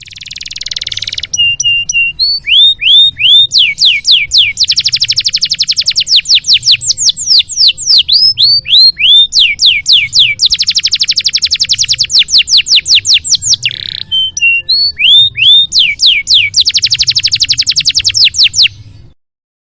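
Canary singing a long, loud song of rapid trills and repeated swooping notes, with a brief break about fourteen seconds in. The song stops shortly before the end.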